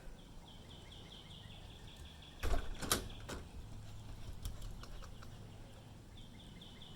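A bird's rapid trill of short, slightly falling high notes, heard twice in the background. A few knocks about two and a half to three seconds in are the loudest thing.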